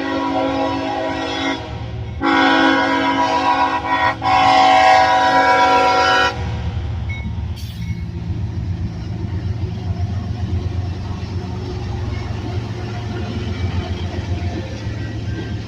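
CSX freight train led by GE ES44DC and ES44AH diesel locomotives sounding its air horn in long blasts, the last one ending about six seconds in. After that the locomotives and cars rumble steadily past.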